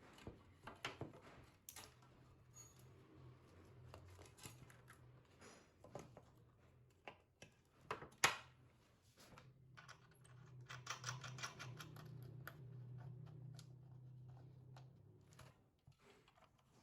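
Faint clicks and taps of small parts and hand tools being handled on a workbench, with a low hum in the second half.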